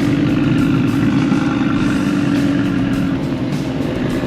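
A motor vehicle engine running, a steady drone that eases slightly near the end.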